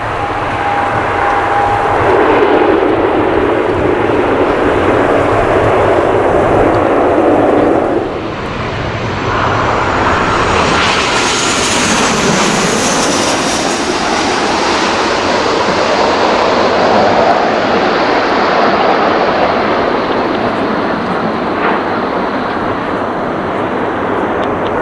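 An ATR 72-600 turboprop airliner passing close with its engines running steadily. About eight seconds in it gives way to a Boeing 737-800 jet airliner passing close overhead: a loud jet noise whose high whine swells to a peak and falls away, leaving a steady rumble.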